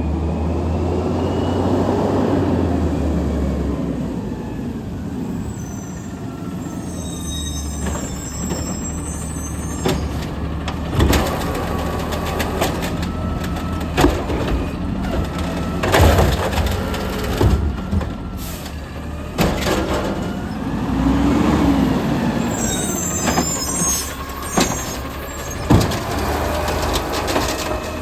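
Garbage truck engine running, rising and falling twice, with high squeals and hissing. From about ten seconds in come a string of irregular bangs and clanks.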